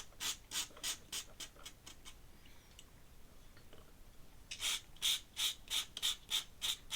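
Ink pen scratching on paper in quick repeated shading strokes, about three a second, stopping for a couple of seconds midway and then starting again. The artist thinks the pen's nib may be wearing out.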